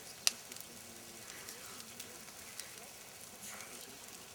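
Campfire crackling: scattered sharp pops and snaps over a steady hiss, the loudest pop coming a fraction of a second in.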